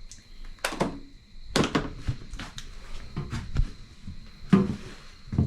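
Several dull thunks a second or more apart, from the kick-starter of a 2008 Yamaha WR450F being kicked over without the engine catching.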